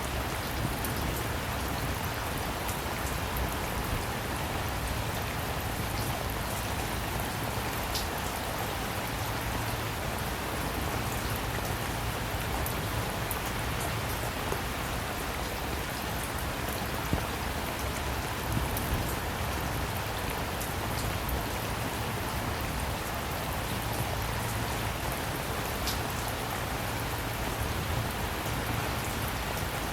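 Steady rain falling, with an occasional sharper drop tick standing out.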